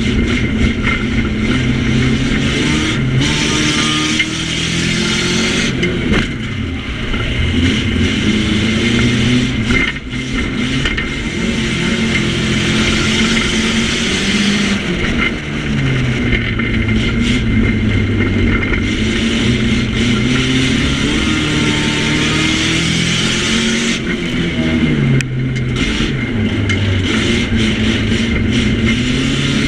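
Nissan Micra banger's engine heard from inside the stripped-out cabin, revving up and easing off again and again as it races round the track, over a steady rush of road and wind noise.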